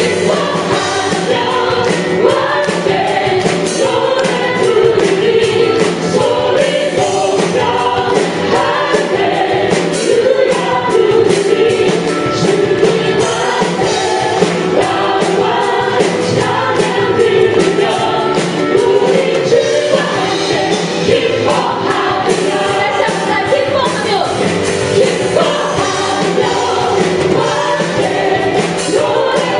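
Live contemporary worship music: a praise band plays while a choir of voices sings a gospel song with a steady beat.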